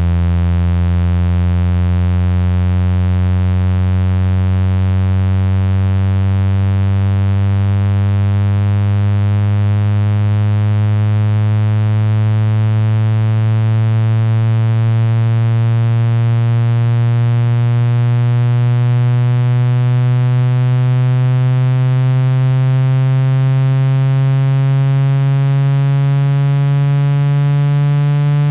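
Low electronic tone played to shake water out of a phone speaker, buzzy with many overtones, slowly and steadily rising in pitch.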